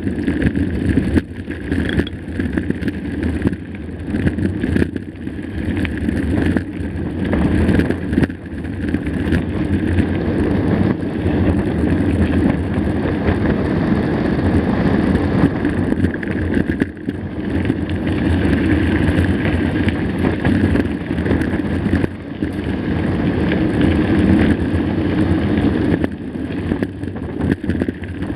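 Mountain bike riding a rough dirt trail: steady rush of wind on the microphone, with tyre noise and frequent jolts and rattles as the bike hits bumps.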